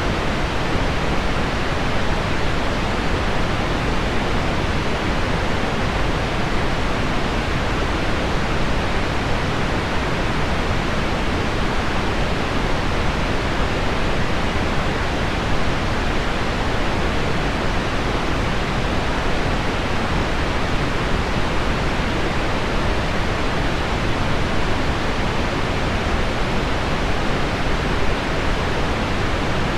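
Steady, unchanging pink noise, described by the uploader as low-frequency pink noise mixed with heavy rain on window glass, with no individual drops or taps standing out.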